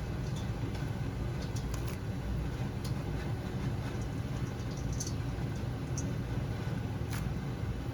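A steady low rumble, like a vehicle's running noise heard from inside, with a few faint ticks.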